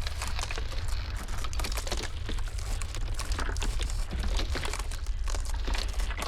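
Ice cracking and crackling in a dense, irregular patter of snaps and crunches, over a low steady rumble of blizzard wind.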